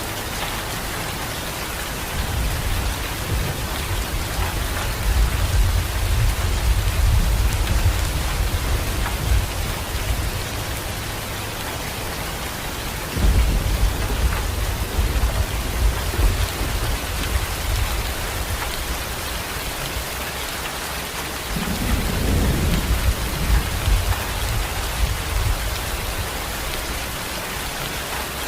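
Steady rain falling, an even hiss, with deep low rumbles swelling three times and dying away, from about two seconds in, about thirteen seconds in, and about twenty-one seconds in.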